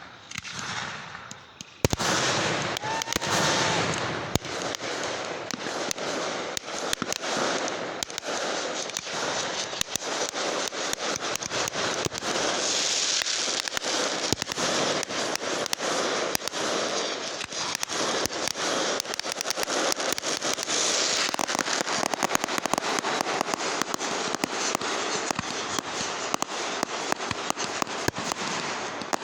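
Fireworks going off: a dense, continuous crackle of rapid sharp pops that sets in about two seconds in and keeps up without a break.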